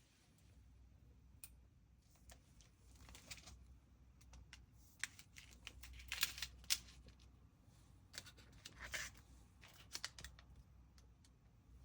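Faint handling of candy-kit packaging: plastic wrappers crinkling and tearing, with scattered light clicks and taps. The loudest rustles come about halfway through and again near the end.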